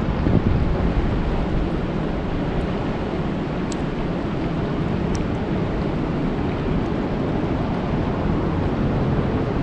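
Steady rain falling on a lake, an even hiss weighted toward the low end, with a few faint sharp drop ticks.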